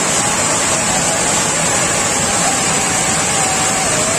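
Water rushing steadily over an overflowing dam, an even wash of noise, with a faint thin wavering tone above it.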